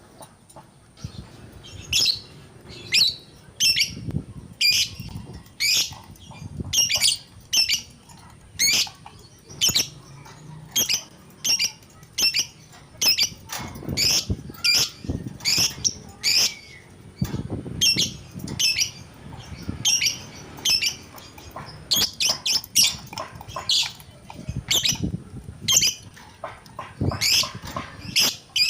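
Lovebird calling in an agitated, worked-up state: a long run of sharp, shrill chirps and squawks, about one or two a second, irregularly spaced, with soft low thuds between some of the calls.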